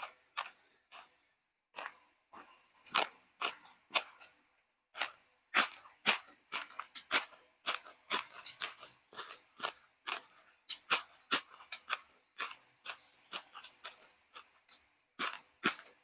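Crisp fried food being bitten and chewed: a long run of irregular sharp crunches, several a second.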